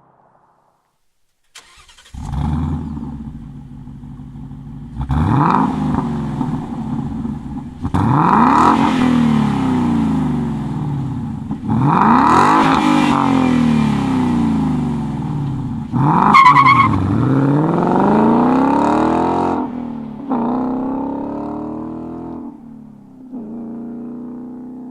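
2018 Ford Mustang GT's 5.0-litre V8 exhaust: the engine starts about two seconds in, settles to idle, and is then revved hard four times, each rev rising in pitch and falling back. A couple of smaller blips follow near the end.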